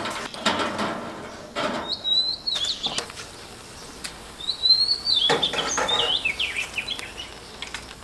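A small songbird chirping in two short spells of thin, high, wavering notes, about two seconds in and again from about four and a half to seven seconds. A few short knocks and rustles come in between.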